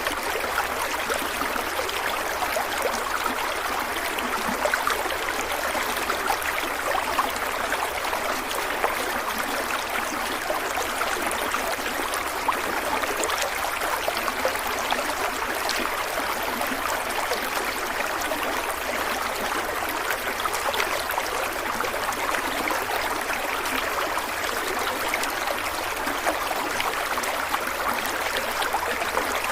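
Stream water flowing and splashing over rocks, a steady rushing babble with fine trickling detail.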